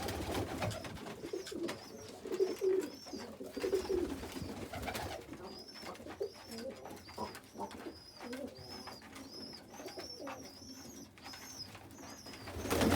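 Pigeons in a loft cooing low while they feed, with many short clicks of beaks pecking at seed. From about five seconds in, a high thin peeping repeats about twice a second, typical of young pigeons begging. A brief louder burst of noise comes near the end.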